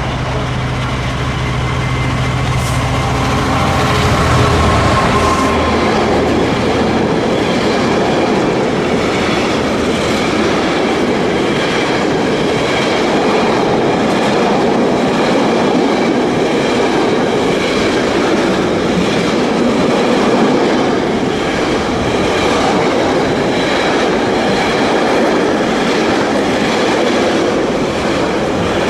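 Class 66 diesel locomotive passing, its two-stroke V12 engine giving a steady low drone for the first few seconds. The drone then gives way to the steady rolling rumble of the intermodal wagons going by, with wheels clattering over the rail joints.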